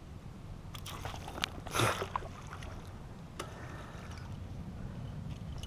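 Light water trickling and small knocks around a fishing kayak, with a brief louder burst of water about two seconds in.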